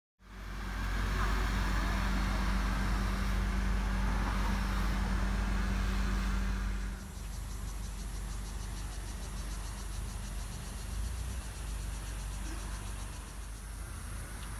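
Steady motor-vehicle hum for about seven seconds, then a quieter outdoor ambience with insects chirring high and fast.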